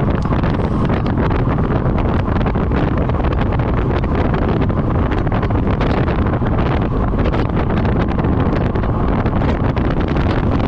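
Steady, loud wind rushing and buffeting the microphone, as from riding a road bike at speed, with faint crackles through it.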